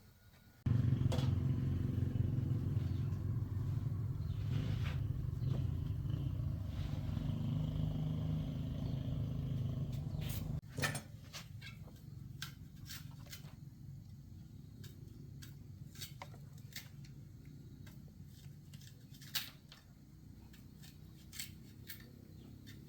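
Motorcycle engine running steadily, starting abruptly and cutting off suddenly after about ten seconds. Scattered sharp clicks and taps follow.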